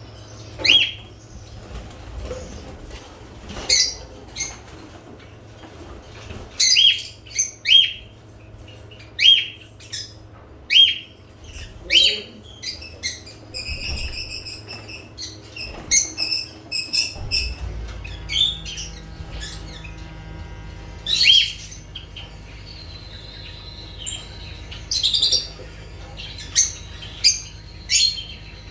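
Lovebirds giving short, sharp, high chirps, one every second or so, with a stretch of rapid chattering about halfway through. A low steady hum comes in a little past the middle.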